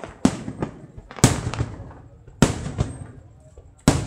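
Aerial firework shells bursting overhead: four loud bangs about a second apart, each trailing off before the next.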